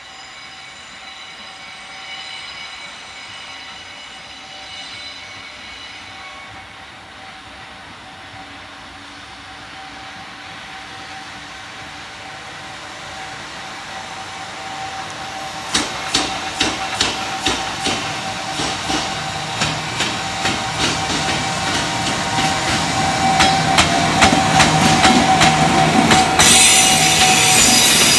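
Freight train approaching: a steady tone grows slowly. From about halfway, the wheels start clacking over rail joints, the clacks growing faster and louder. Near the end a loud high rushing noise sets in as the train reaches the spot.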